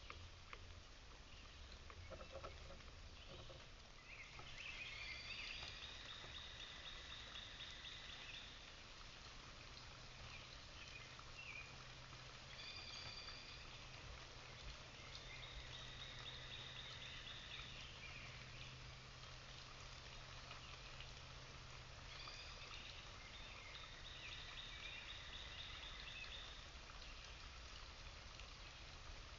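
A songbird singing a trilled song of about three to four seconds, four times, over a faint steady hiss.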